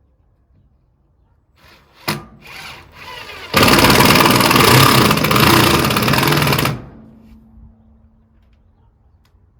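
Power drill running under load for about three seconds, fixing into a plywood wall panel. It is preceded by a sharp knock and a few short scrapes of handling.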